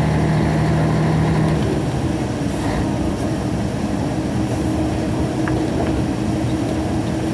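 Truck engine running under load, a steady drone heard from inside the cab; the engine's tone shifts to a higher pitch about a second and a half in.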